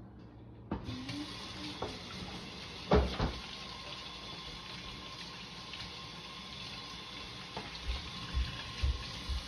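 Kitchen faucet running into a stainless steel sink while hands are washed under it. The water comes on about a second in, with a thump about three seconds in and a few softer knocks near the end.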